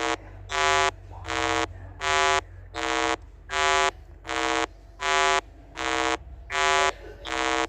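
A buzzy electronic beep repeated about eleven times at an even pace, roughly one every three-quarters of a second, with each beep lasting about half a second.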